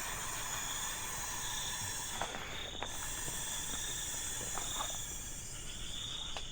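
Steady chorus of crickets and other insects, a continuous high trill over a hiss, with a few faint clicks.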